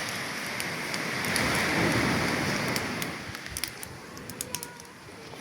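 Campfire burning: a rushing hiss of flames that swells about a second in and fades after three, with the wood crackling and popping in sharp snaps, more of them near the end.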